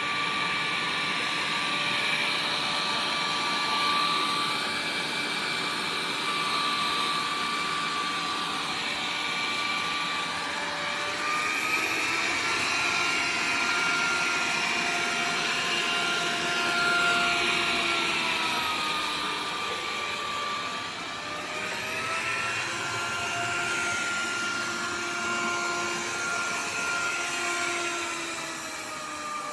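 Dreame D20 Pro Plus robot vacuum running with a steady suction whoosh and a motor whine. The whine shifts up and down in pitch a few times.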